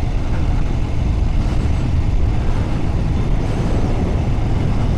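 Steady wind rush and low rumble of a motorcycle riding along, heard from the rider's own microphone.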